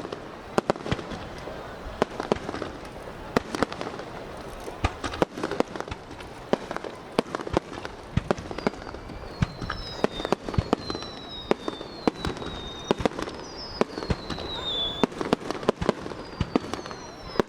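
Fireworks display: a rapid, irregular run of sharp bangs and crackling bursts, with several high whistles falling in pitch from about halfway through.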